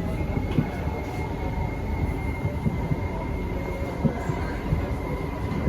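Inside a Kawasaki–CRRC Sifang C151C metro train car while it runs along the track, a steady rumble of wheels and running gear with a thin, steady high-pitched whine.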